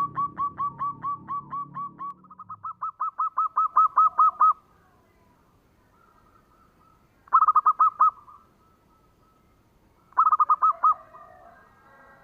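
Zebra dove (perkutut) singing: a long run of rapid, evenly spaced cooing notes that grows louder over the first four and a half seconds, then two short bursts of the same notes about three seconds apart.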